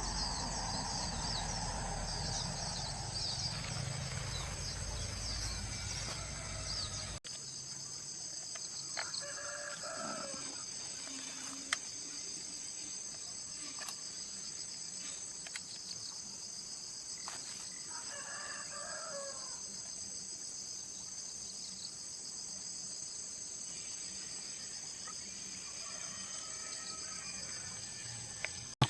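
A rooster crowing three times, several seconds apart, over a steady high insect drone.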